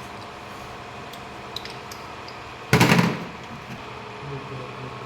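Tractor diesel engine running steadily. About three seconds in, a loud sudden noise lasts about half a second.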